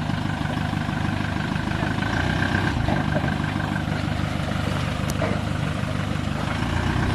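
A four-wheel drive's engine idling steadily while the vehicle sits flexed up on a rock, with a faint steady high whine over it for the first few seconds.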